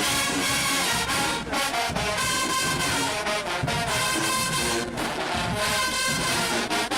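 Marching band playing loudly, brass section (trumpets, trombones, tubas) carrying a tune over drum hits.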